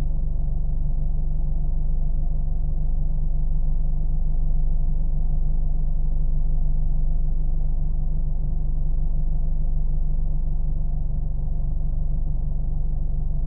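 Car engine running at a steady low drone, with a rumble and nothing rising or falling.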